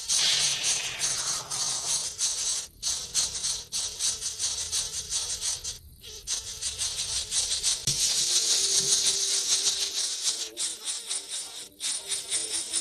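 Nestling birds begging, a dense, rapid rattling chatter of high chirps that runs on with a few short breaks.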